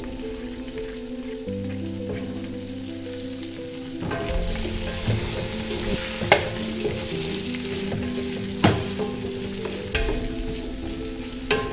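Food frying and sizzling in a pan while it is stirred, the sizzle growing louder about four seconds in, with a few sharp knocks of a utensil against the pan, over soft instrumental background music.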